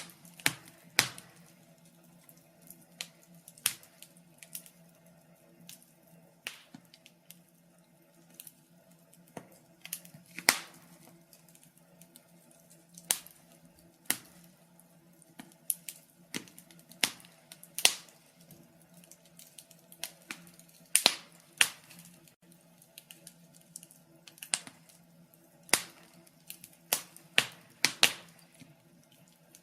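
Wood fire crackling: irregular sharp pops and snaps, sometimes one every second or two and sometimes several in quick succession, over a faint low steady hum.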